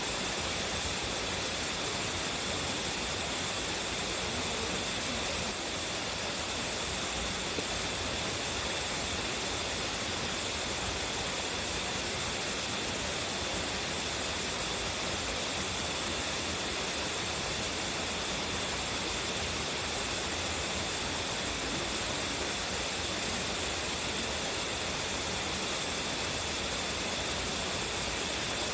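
A strong-flowing waterfall: water falling and splashing in a steady, unbroken rush.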